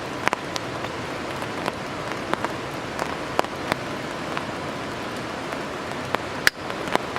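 Steady rain with heavy drops striking close by in scattered sharp ticks, and one louder sharp click about six and a half seconds in.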